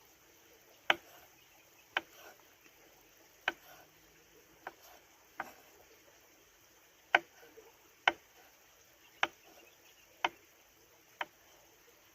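Sharp single knocks, about ten of them, unevenly spaced roughly a second apart.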